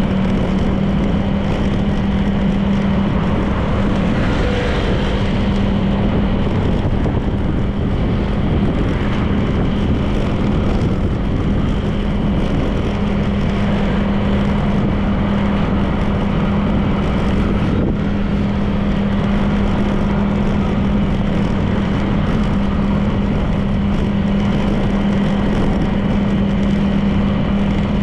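Honda PCX 160 scooter's single-cylinder engine running at a steady cruising speed, a constant drone that holds its pitch, over a rush of wind and road noise.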